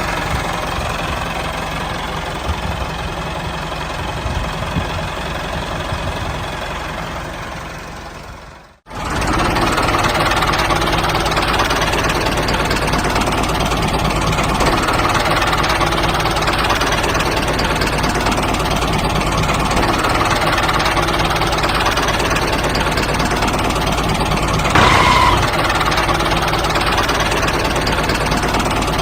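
Mini tractor's small motor running steadily. It fades out and cuts off about nine seconds in, then runs again steadily, with a brief louder tone near the end.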